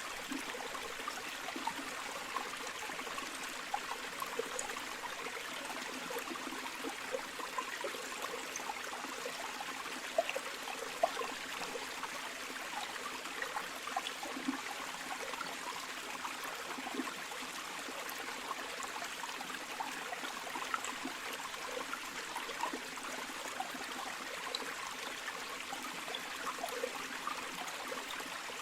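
Flowing river water running steadily over stones, a constant rush with small splashes and gurgles throughout.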